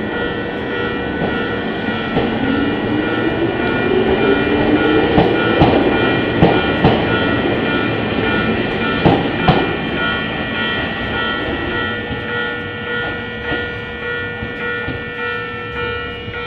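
Ohmi Railway electric train pulling out of the station: its motor whine rises in pitch as it gathers speed, the wheels clack over the rail joints several times as the cars pass, and the sound then fades as the train leaves. Steady held notes of background music run underneath.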